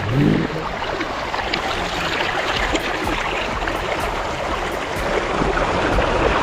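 Fast-flowing forest stream rushing steadily, swollen by continuous rain. A brief low rising sound comes at the very start, and the rushing cuts off suddenly at the end.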